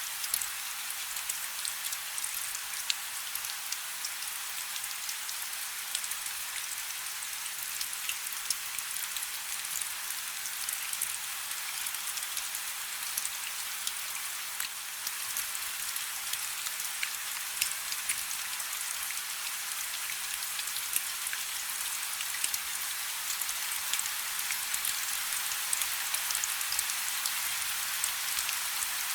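Light rain falling steadily, a soft hiss dotted with many small drop ticks.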